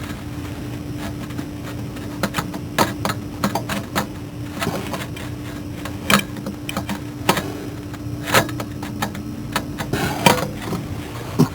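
Irregular metallic clinks and knocks as a replacement starter motor is worked up into a tight spot on a Dodge Journey 3.6 L engine, over a steady low hum.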